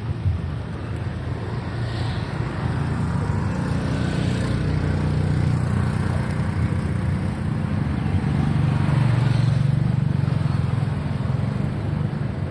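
A low engine rumble, like motor traffic, that swells twice, loudest a little past the middle.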